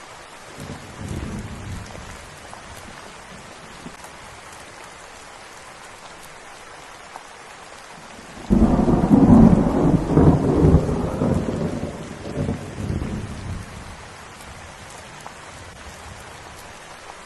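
Steady rain falling, with a faint low roll of thunder about a second in. Halfway through, a loud thunderclap breaks in suddenly and rumbles on for several seconds before dying away under the rain.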